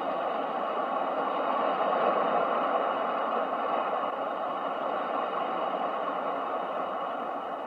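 Ocean waves as a sleep sound: a steady rushing wash that swells about two seconds in and slowly eases off.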